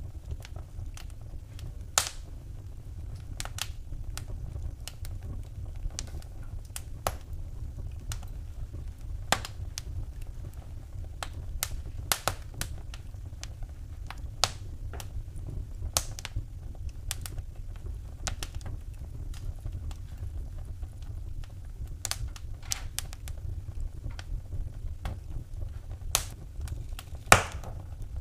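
Wood fire burning in a fireplace, crackling with irregular sharp pops over a steady low rumble of the flames; one pop near the end is the loudest.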